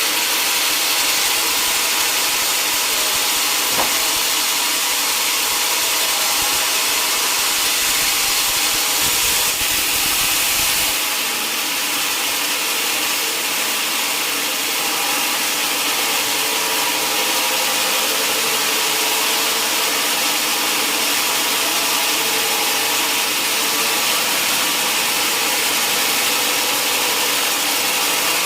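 Sawmill saw running steadily through a mahogany log: a continuous loud hiss over an even machine hum, easing slightly about eleven seconds in.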